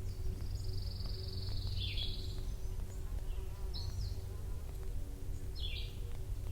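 Spring outdoor ambience of birds calling: a high trill lasting about two seconds near the start, then short high chirps about every two seconds. Beneath it runs a steady low rumble with a faint buzzing hum.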